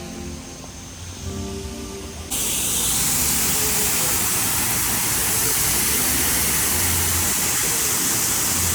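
Background music for about two seconds, then a sudden cut to a loud, steady rush of falling water.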